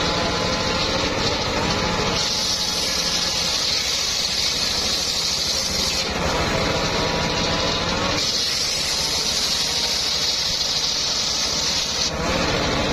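Homemade engine-driven circular sawmill ripping old, somewhat hard mahogany. Two cuts of about four seconds each give a loud hissing rasp. Between them the blade spins free with a steady whine, and the engine runs throughout.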